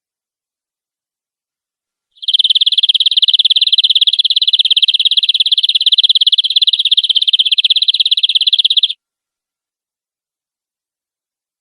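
Domestic canary singing one long, very rapid, even trill (a roll) at a steady high pitch, starting about two seconds in and lasting about seven seconds before stopping abruptly.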